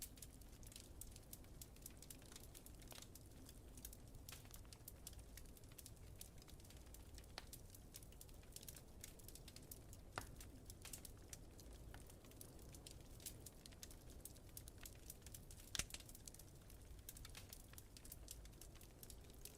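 Wood fire crackling in a fireplace: soft, irregular pops and snaps, with two louder pops, one about halfway through and one later, over a faint low rumble.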